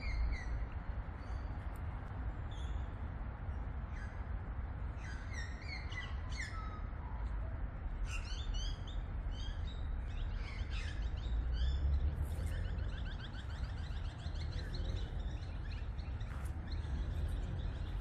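Several birds calling: short runs of falling chirped notes, then a fast trill of repeated notes from about halfway through, over a steady low rumble.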